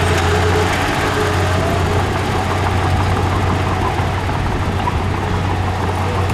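Diesel engine of heavy earthmoving machinery running steadily under a constant low hum, with a faint whine above it.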